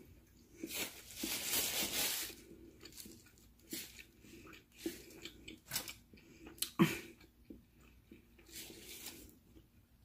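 Close-miked chewing of a McDonald's breakfast sandwich with the mouth closed: soft wet smacks and clicks scattered throughout, one louder smack past the middle. A longer hiss-like rustle comes about a second in, and a shorter one near the end.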